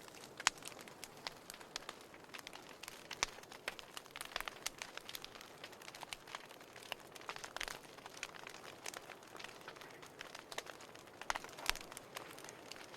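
Wood fire crackling in a fireplace: irregular sharp pops and snaps of varying strength over a soft steady hiss.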